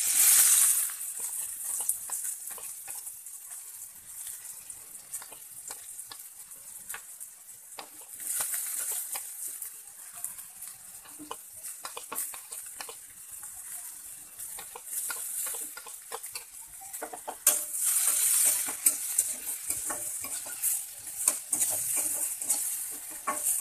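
Chopped vegetables and chicken frying in hot oil in a metal kadhai: a loud sizzle as they hit the oil, then steady sizzling with a spatula scraping and clinking against the pan as they are stirred. The sizzle swells again about eight seconds in and near eighteen seconds.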